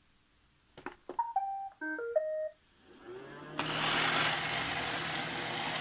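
iRobot Roomba 696 robot vacuum starting up: a couple of clicks, its short electronic beep tune of several stepped notes, then its motors spinning up with a rising whine into a steady whirring hiss about three and a half seconds in.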